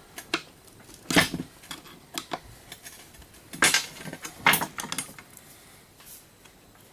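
Metal parts and tools clinking and knocking while a coffee grinder is taken apart by hand: a string of sharp clanks and clicks, the loudest about a second in, around three and a half seconds and about four and a half seconds.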